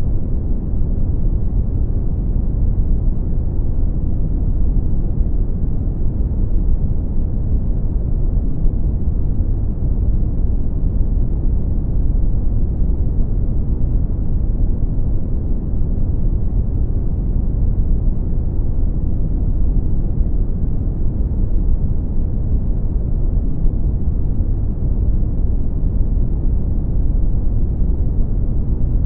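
Brown noise: a steady, deep rumbling hiss, strongest in the bass and dull in the highs, unchanging in level.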